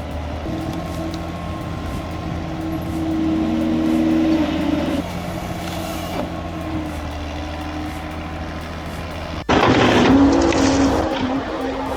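A heavy engine on logging equipment runs steadily, its pitch rising briefly and falling back about three to five seconds in. About nine and a half seconds in it cuts abruptly to a louder, rougher engine sound with a lot of hiss.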